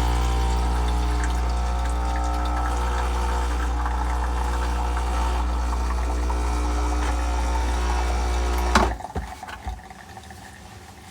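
Espresso machine pump running with a steady hum while pulling two shots. It stops with a click about nine seconds in.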